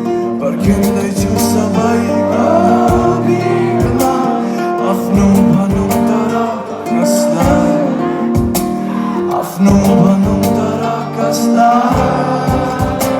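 Live band music: strummed acoustic guitar with regular drum hits and a male voice singing.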